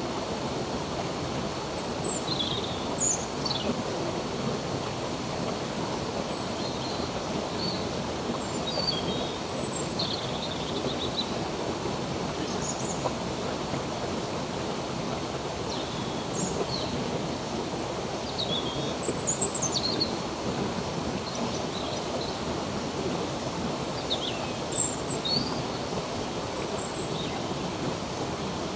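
Running water of a stream, a steady rushing, with small birds chirping over it in short, quick calls and down-slurred notes throughout.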